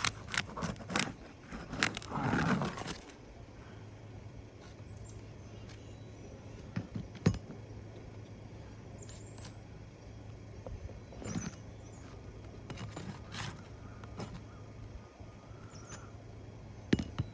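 Asphalt architectural shingles being pried unsealed from the course beneath with a roofing tool: a run of scraping and crackling in the first few seconds, then scattered sharp clicks and scrapes, one loud click about seven seconds in.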